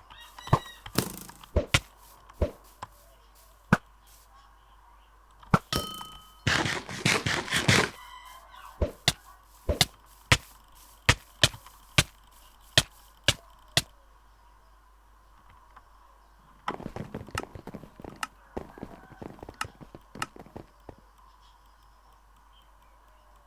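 Sharp clicks, some single and spaced out, some in quick runs lasting a few seconds. About halfway through they come evenly, roughly two a second, and there are quiet gaps between the runs.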